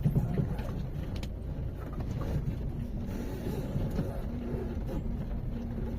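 A steady low rumble, like a motor vehicle's engine running.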